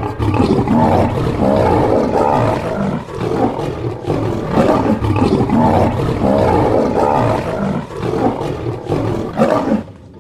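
African lion roaring, loud and continuous, in repeated surges that swell and dip about every second.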